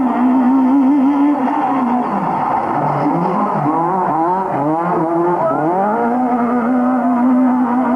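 Rally car's four-cylinder engine held at high revs, then from about two seconds in its pitch drops and climbs several times in quick succession through gear changes, before settling back to a steady high rev near the end.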